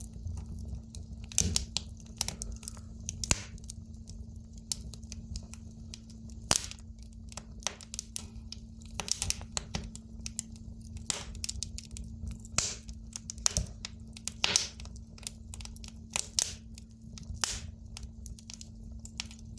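Firewood burning in an open fire, crackling with irregular sharp pops, some much louder than others, over a steady low hum.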